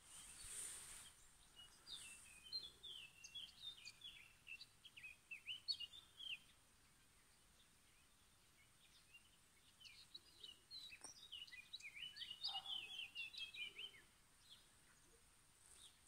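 A songbird singing two fast, jumbled phrases of quick chirpy notes, the first starting about two seconds in and the second about ten seconds in, each lasting four to five seconds.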